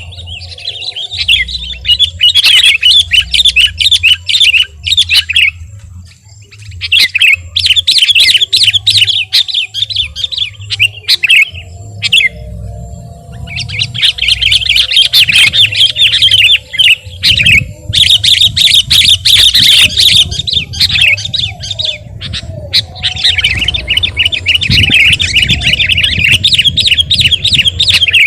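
Sooty-headed bulbul (kutilang) singing in full, continuous 'gacor' song: long bouts of rapid, chattering notes, about five bouts with short pauses between them.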